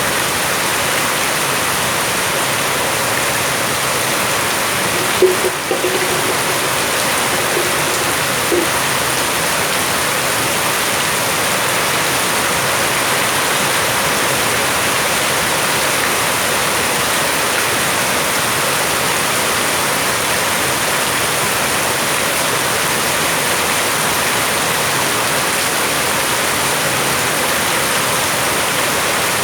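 Heavy rain falling steadily, a loud even hiss of water. A brief short sound cuts through about five seconds in, and a small knock follows a few seconds later.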